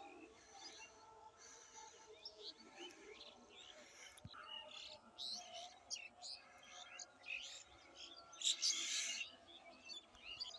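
Birds chirping, many short calls overlapping, with a brief louder rush of noise about eight and a half seconds in.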